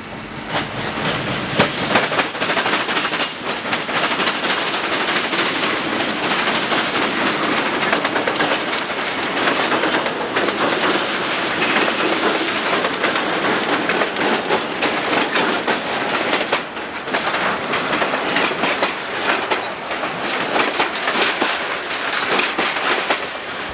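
Union Pacific diesel freight train passing close by, its locomotive followed by piggyback trailer flatcars, with a loud, dense clatter of wheels banging over the three-way railroad diamond crossing.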